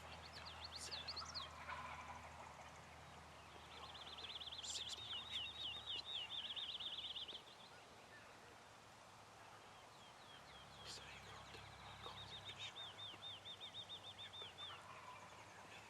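A songbird singing long, rapid high trills of evenly repeated notes, twice, in the pre-dawn woods, with a faint low hum beneath.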